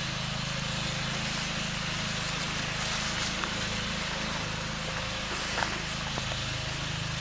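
A small petrol engine running steadily at one speed, heard from next door: a lawnmower.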